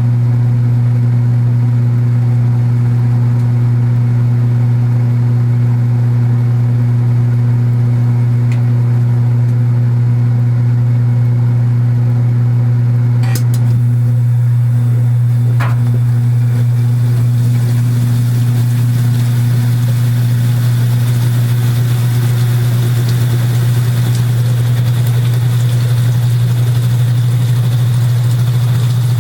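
Kenmore belt-drive portable washing machine running with a steady loud motor hum and a buzz from its cabinet. Two sharp clicks come about halfway through, and after them a hiss slowly builds over the hum.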